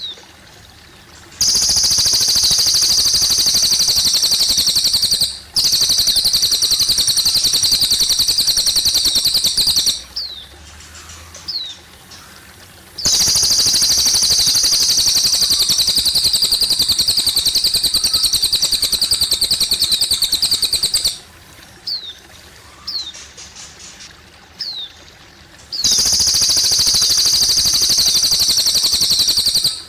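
Cililin bird singing: four long, rapid, high trills of several seconds each, with short falling chirps in the pauses between them. Water trickles faintly underneath.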